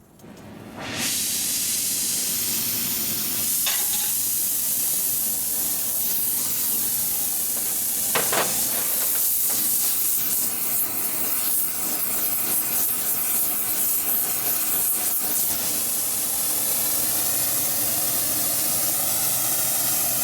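Rosebud heating-tip torch burning with a steady hiss, coming on about a second in, as it heats a stuck fuel strainer to free it. A couple of light knocks sound over it.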